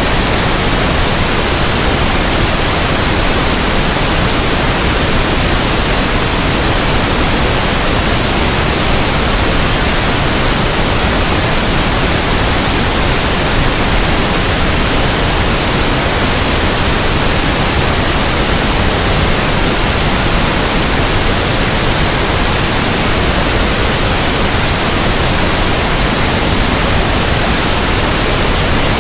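Pink noise: a steady, even hiss spread across the whole range, with no change or events.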